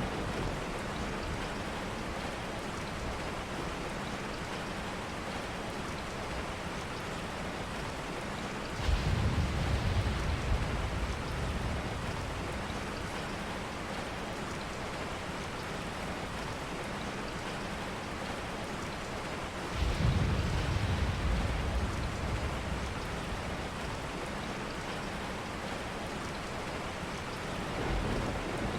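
Steady rain, with two low rumbles of thunder about nine and twenty seconds in, each lasting a couple of seconds.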